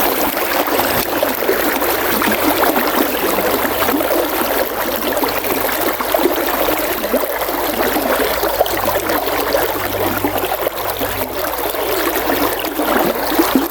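River water flowing, a steady rush and trickle of moving current.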